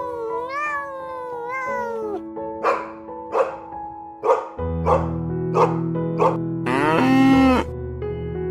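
A dog barking about six times at an even pace over background music. Two gliding calls come before the barks, and a long loud animal call comes near the end.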